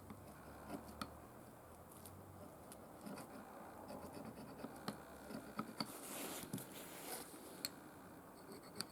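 Faint scratching and scattered light clicks of small parts being handled and worked by hand during the brush cutter's disassembly, with a short patch of rubbing about two-thirds of the way through.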